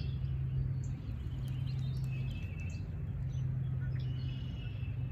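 Birds chirping a few times over a steady low background hum.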